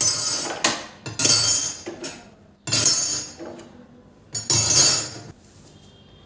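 Kitchen utensils and dishes clattering and clinking in about five separate bursts, each up to a second long, then stopping about five seconds in.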